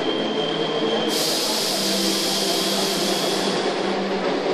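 Chennai MRTS electric multiple-unit train running, heard from inside the carriage: a steady rumble and hum of the moving train. A loud high hiss sets in about a second in and fades out about a second before the end.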